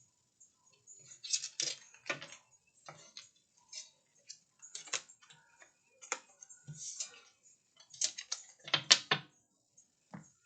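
A deck of tarot or oracle cards being shuffled and handled: irregular clicks, snaps and short rustles of cards, loudest about a second and a half in and again near the end.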